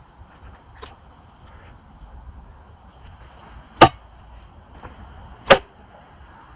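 Thrown shuriken striking a target twice, two sharp impacts about a second and a half apart, with a faint click shortly before.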